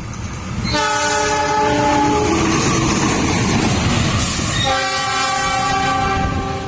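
Passing train sounding its multi-tone horn in two long blasts, the second lower in pitch, over the rumble of the train on the rails.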